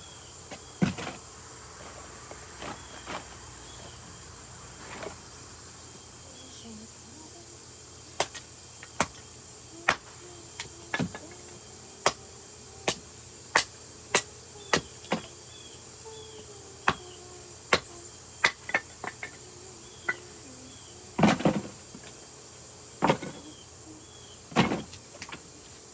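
Council Tool Hudson Bay axe with a 24-inch handle chopping and splitting firewood: a run of sharp, irregular chops, sparse at first and coming about one a second from about a third of the way in, with a few heavier, longer knocks near the end.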